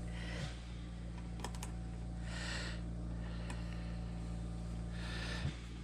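A few light clicks and soft scrapes of small metal machine parts being fitted by hand, over a steady electrical hum.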